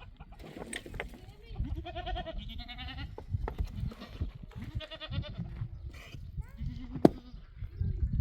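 Sheep bleating, with wavering calls about two seconds in and again around five seconds. A sharp click comes about seven seconds in.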